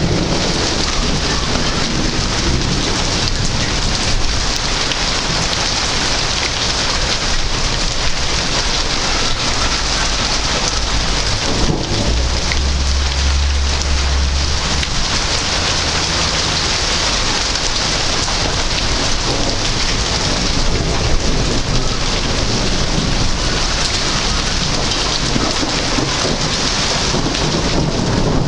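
Heavy rain falling steadily in a thunderstorm, with a deep rumble of thunder about halfway through that lasts a couple of seconds.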